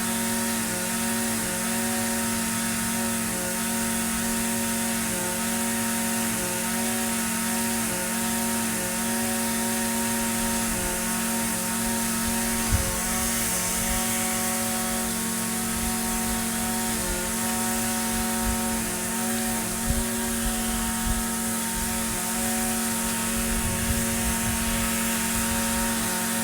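Echo SRM-2620 string trimmer's small two-stroke engine running at a steady speed, with a few light knocks in the second half.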